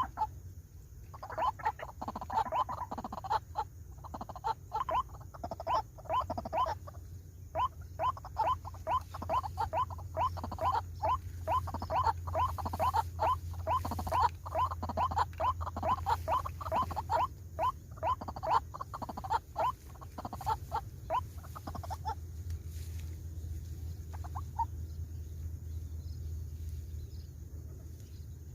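White-breasted waterhen calling: a long run of short croaking notes, about four a second, that breaks off about 22 seconds in, followed by a few faint notes.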